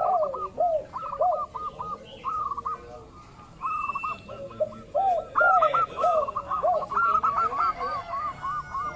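Zebra doves (local perkutut) cooing in quick runs of short, arched notes, with a lower-pitched series of notes overlapping at times. The calling pauses briefly about three seconds in, then picks up again.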